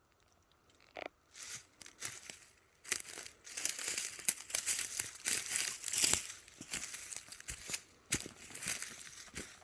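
Dry bark, leaves and twigs crunching and crackling in irregular handfuls, a dense run of crinkly rustles and small snaps that starts about a second in.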